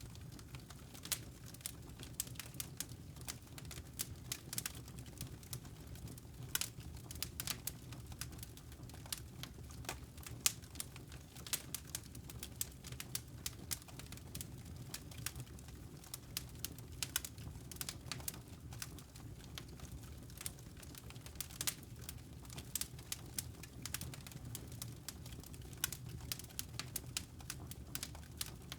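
Wood fire crackling in a fireplace: irregular sharp pops and snaps, some louder than others, over a steady low rumble of the burning fire.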